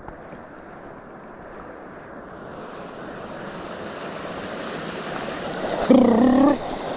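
Rushing runoff water in a canyon stream, a steady rush that grows louder as the fat bike rides toward and into it, with some wind on the microphone. A man's short vocal exclamation about six seconds in.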